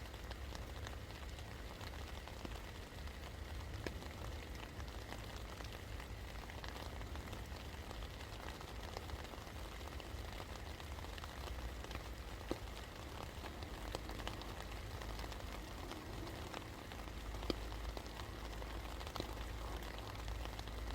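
Steady rain falling, an even hiss of drops with scattered sharper drip ticks, two of them louder about twelve and seventeen seconds in, over a low steady rumble.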